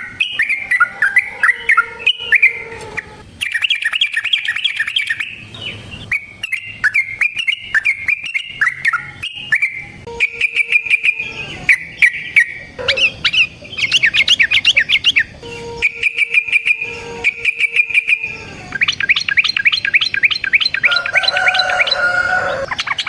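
Yellow-vented bulbul (trucukan) singing loudly, a busy run of chattering, bubbling phrases broken by fast rolls of repeated notes several times a second. It is a lure recording of a bird in full song.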